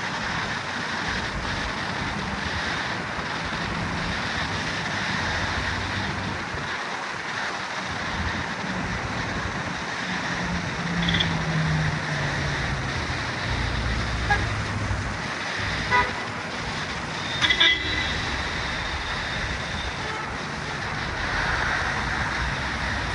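Street traffic on a rainy evening: a steady hiss of tyres and engines, with one vehicle's engine note sliding down as it passes around the middle. Several short car-horn toots sound in the second half, the loudest a quick cluster of toots a little past the middle.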